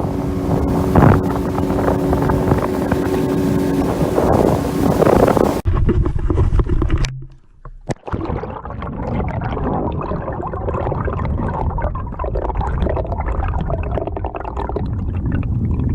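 Motorboat running over the water with wind on the microphone, a steady engine hum under the rush. About five seconds in the sound changes abruptly and drops out for a moment, then a duller wind-and-water rush with many small knocks follows.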